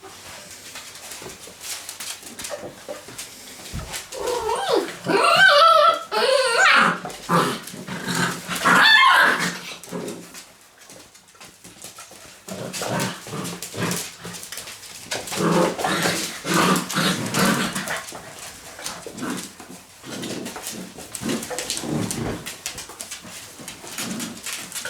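Six-week-old Labrador retriever puppies play-fighting, making high puppy yaps, growls and whimpers. The loudest stretches come about four to ten seconds in and again around thirteen to eighteen seconds in.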